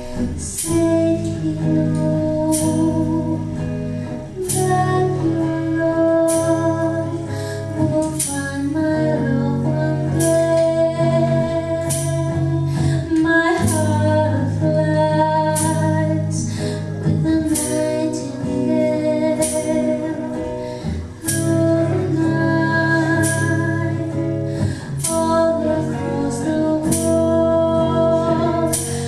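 Slow acoustic song: strummed acoustic guitar, its strokes coming about every second, accompanying a singer who holds long notes.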